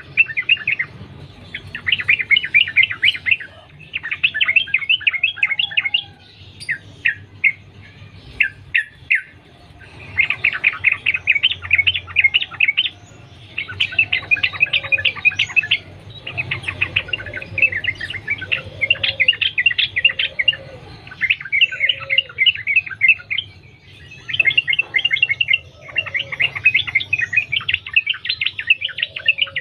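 Sooty-headed bulbul (trucukan) singing in a continuous, 'sambung ropel' style: bouts of rapid chattering notes, each lasting one to three seconds, follow one another with short pauses. A few lower, softer notes come in the middle.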